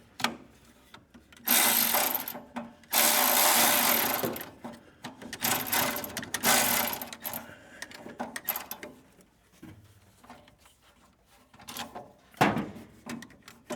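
Handheld power tool running in three bursts of one to two seconds each, then a short burst near the end.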